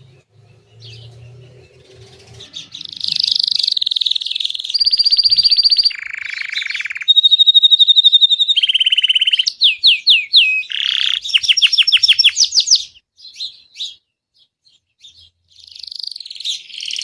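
Grey Belgian canary singing a chain of fast trills and rolls, each held for a second or two at a different pitch, some as quick falling sweeps. The song is loudest in the middle, breaks off for a few seconds and picks up again near the end.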